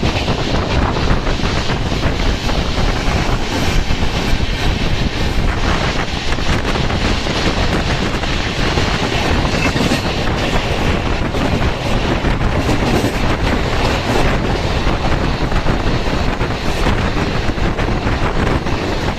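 Coromandel Express passenger train running at speed, a steady loud rumble and rattle with wheels clacking over the rail joints.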